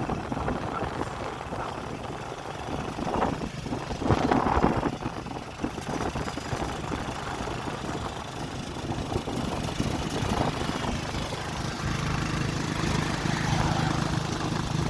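Vehicle engine running with road noise, louder for a moment about four seconds in and settling to a steadier low hum near the end.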